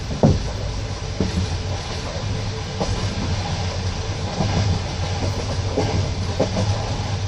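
Passenger train carriage running along the track, heard from inside the car: a steady low rumble with the wheels knocking over rail joints at irregular intervals, the loudest knock just after the start.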